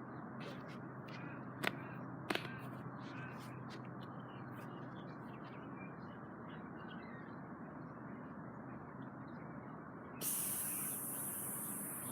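Steady background noise with two sharp clicks early on, then an aerosol spray-paint can starting to spray about ten seconds in, a sudden loud, high hiss that keeps going.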